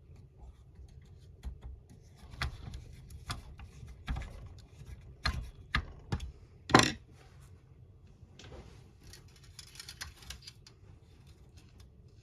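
Clicks and knocks of small plastic model-kit parts and tools being handled on a work surface, with a sharper knock about seven seconds in, then lighter rattling.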